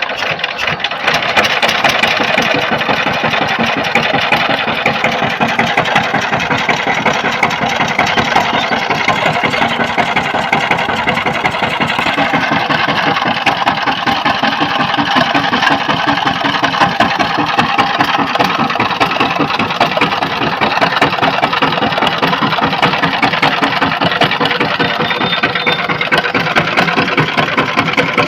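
Power tiller engine running with a rapid, even firing beat, picking up about a second in and then running steadily.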